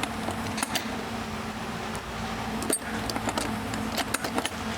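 Irregular metallic clicks and clinks of hand tools working on motorcycle exhaust mounting hardware, over a steady low hum.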